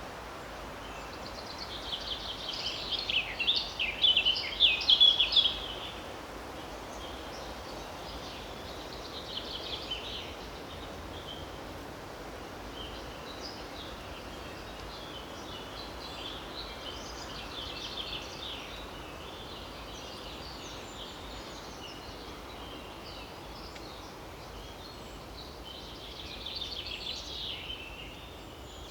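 Pine forest ambience: a steady hiss of wind across the treetops, with small birds singing in bursts of rapid, high twittering. The birds are loudest in the first few seconds and again near the end.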